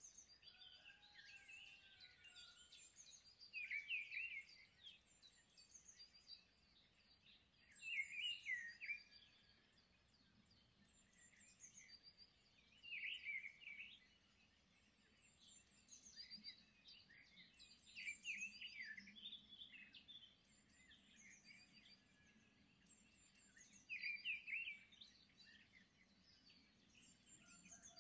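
Birds chirping and twittering in short high bursts every few seconds, faint overall.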